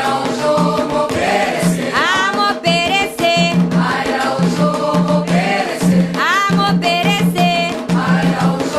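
Candomblé chants (pontos) for Xangô sung by a group over a steady drum rhythm.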